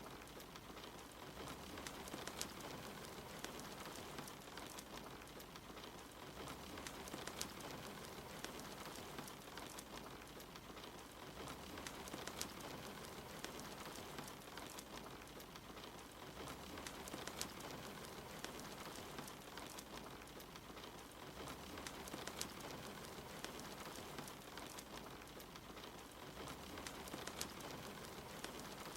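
Steady rain hiss with a wood fire crackling, its small sharp pops scattered throughout.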